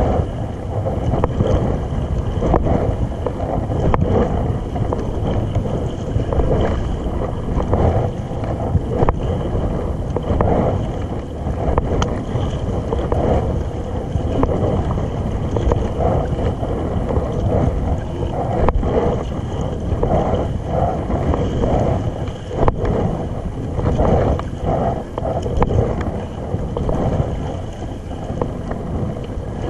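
A kayak being paddled on the sea: water rushing and splashing along the hull, with recurring surges of splashing and a few sharp knocks, and wind on the microphone.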